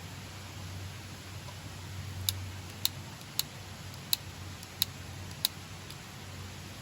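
Six sharp, light metallic ticks a little over half a second apart, over a low steady hum.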